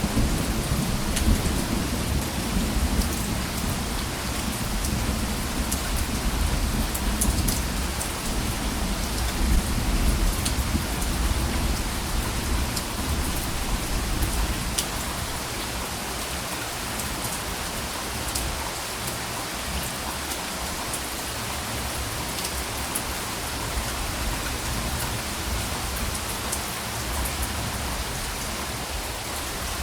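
Steady rain falling, with scattered sharp drop hits, under a low rumble of distant thunder that fades away about halfway through.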